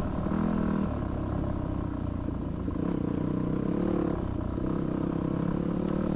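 2006 Yamaha WR250F's 250 cc four-stroke single-cylinder engine running as the dirt bike is ridden, its note rising and falling with the throttle: it drops about a second in, climbs through the middle, and drops again around four seconds in.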